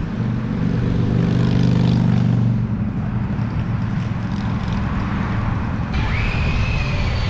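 Wind buffeting the microphone, a heavy low rumble, with a steady droning hum over the first two and a half seconds.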